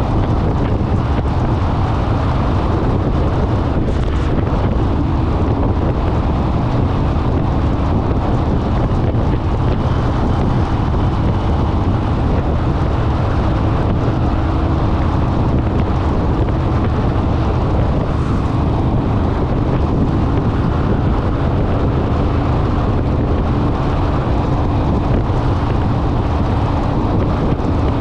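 Wind buffeting the microphone on a moving Honda Rebel motorcycle, with the steady hum of its parallel-twin engine at cruising speed underneath.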